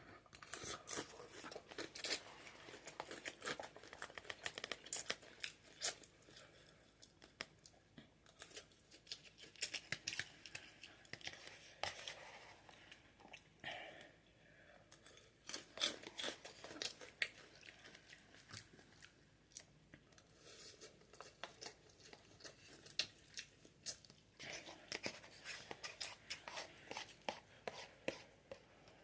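A person eating Buldak ramen noodles up close: chewing with many irregular wet mouth clicks and smacks, coming in clusters with short pauses.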